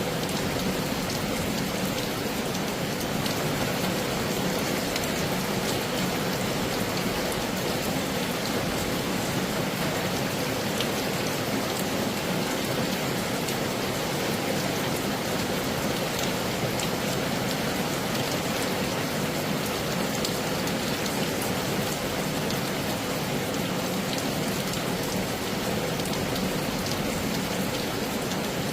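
Heavy rain falling steadily, a dense even hiss flecked with individual drop impacts.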